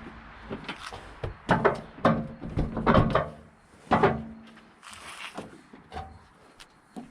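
Knocks and clunks of a car hood being worked down onto its newly installed hood latch until it catches, a cluster of sharp metal impacts in the first four seconds and lighter clicks after.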